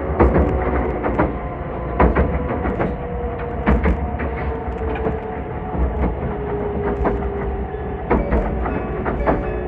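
Meitetsu 2000 series μSKY electric train running at speed, heard inside the passenger car: a steady low rumble with a held motor tone, and wheels clacking over rail joints every second or two.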